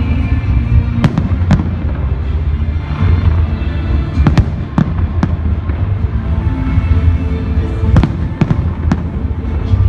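Fireworks bursting in a show, sharp cracks coming in clusters of two or three a few seconds apart over a constant deep rumble, with music playing loudly underneath.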